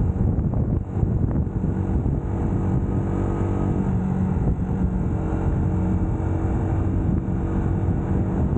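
Motorcycle engine running steadily under way, at an even pitch throughout, with road noise underneath.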